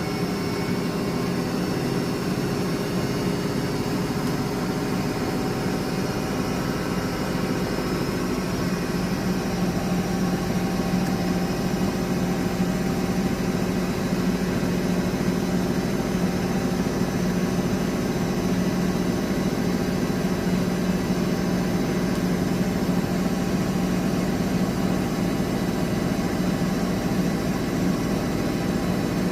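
Miele De Luxe W423 washing machine running with a steady motor hum and whoosh, getting slightly louder about nine seconds in.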